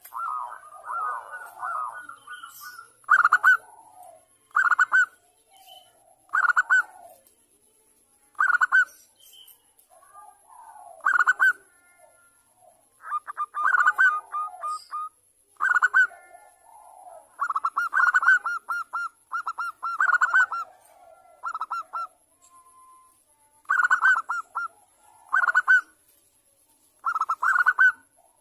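Zebra doves (perkutut) cooing: short bursts of rapid staccato coo notes, repeating every second or two.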